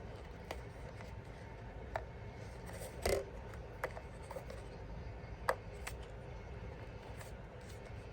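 Scattered light clicks and taps of small hard objects being handled, with a louder knock about three seconds in, over a steady low hum.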